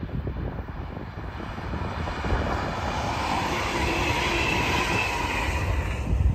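Double-deck electric passenger train passing at speed: its rushing noise builds as it approaches, peaks with a high whine as it goes by, and drops away near the end. Wind buffets the microphone throughout.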